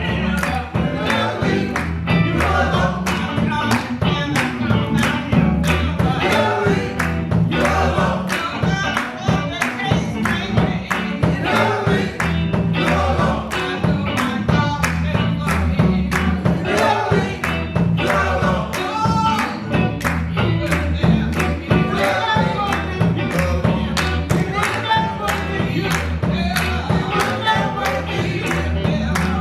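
Gospel choir singing with a band: a steady drum beat and bass line under the voices.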